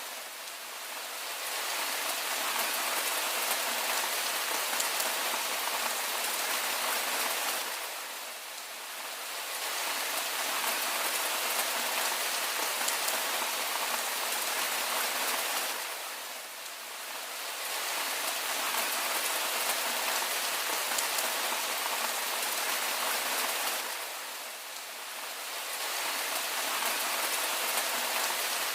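Steady rain falling on surfaces, a dense even hiss that dips briefly in loudness about every eight seconds.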